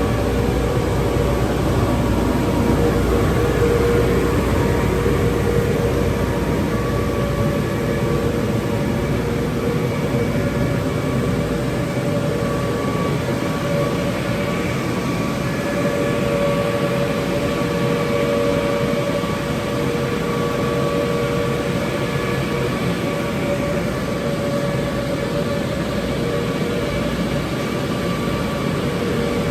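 WashTec car wash tunnel machinery running steadily: a loud, even rush with a steady whine on top, and a low rumble that fades about halfway through.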